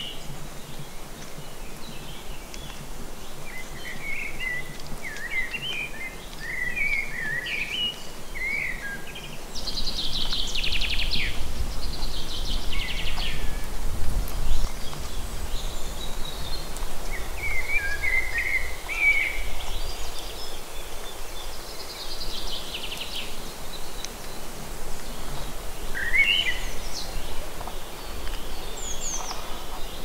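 Several songbirds singing: short warbling phrases and fast trills come again and again. Under them is a steady low rumble that grows louder about a third of the way through.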